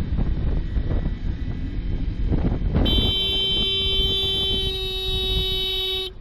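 Wind and road rumble from a moving motorcycle, then about three seconds in a vehicle horn sounds one long steady note for about three seconds and cuts off abruptly.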